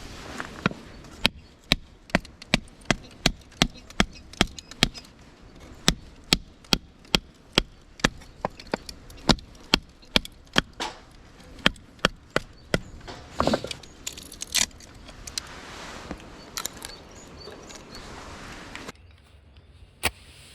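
Steady chopping: a blade striking against wood in sharp knocks about two to three a second, then slower and more irregular in the second half.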